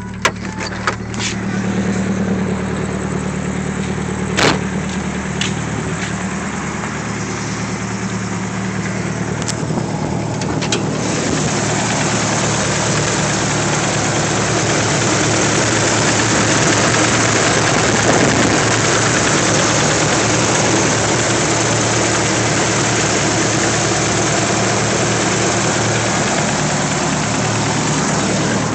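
Nissan SR20DET turbocharged four-cylinder engine idling with the ticking noise the owner is showing, and a few sharper clicks in the first third. A broad, steady rushing noise builds about a third of the way in and holds to the end.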